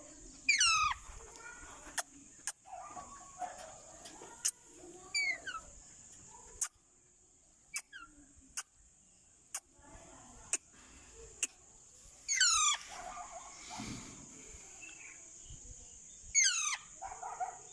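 Psittacula parakeet (Alexandrine or ringneck) giving loud screeching calls that sweep down in pitch, four times, with sharp clicks and soft low chatter in between, over a steady high-pitched whine.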